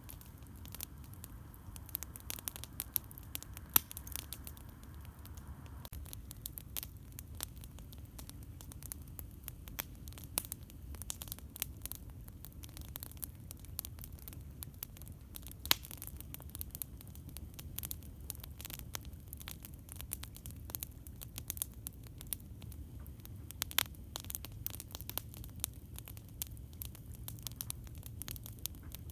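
Campfire crackling steadily with many small snaps and a few louder pops, over a low steady rumble.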